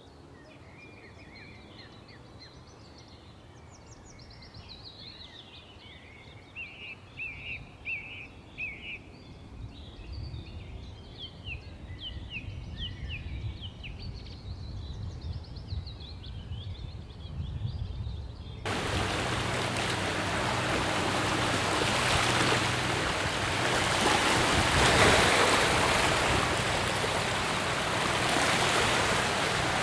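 Small birds chirping and singing in short calls and quick note series. About two-thirds of the way through, the sound cuts abruptly to a loud, steady rush of flowing water that covers the birds.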